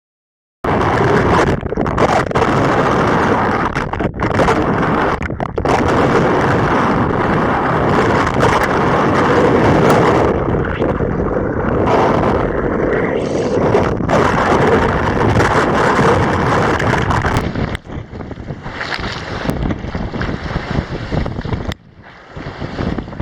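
Strong wind buffeting the microphone aboard a heeling sailboat, with water rushing along the hull: a loud, rough, continuous noise that eases somewhat near the end.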